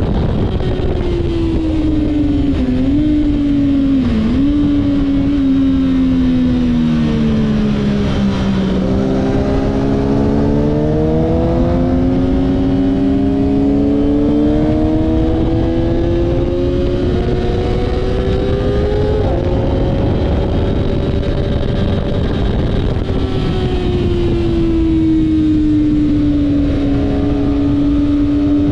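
Kawasaki ZX6R's inline-four engine heard from on the bike at speed, with constant wind rush on the microphone. Its pitch falls to a low about nine seconds in as the bike slows, then climbs steadily under acceleration with a few brief dips at gear changes, eases off once more later and then holds steady.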